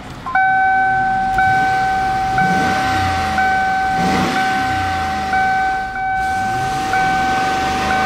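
1995 Lincoln Mark VIII's 4.6-litre DOHC 32-valve V8 being revved in blips, rising and falling twice, under a loud steady warning tone from inside the car that pulses about once a second.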